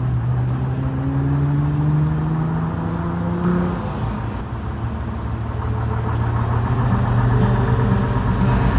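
Electric tram running, its motors humming. The hum rises in pitch over the first few seconds as it gathers speed, then holds a steady lower note.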